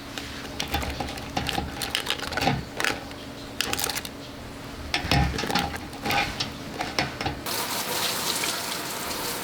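Irregular clicks and knocks of handling and tapping. About seven and a half seconds in, they give way to the steady crackling hiss of a wood fire.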